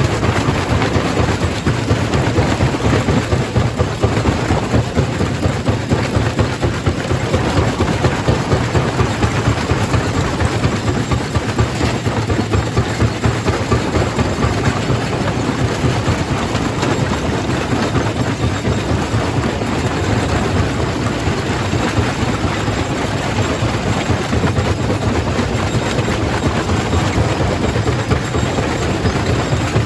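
Quarry primary rock crusher running under load: a steady low machine drone under a dense, continuous clatter and crunch of stone being broken.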